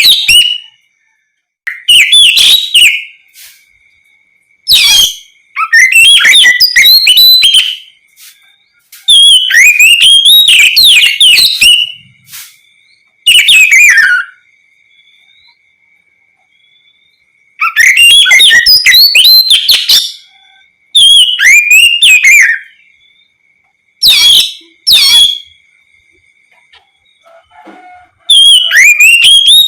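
Oriental magpie-robin (kacer) singing loud, rapid, varied whistled phrases in short bursts of one to three seconds, separated by pauses. This is the open, full-voiced 'ngeplong' song style. A faint steady high tone continues through the gaps.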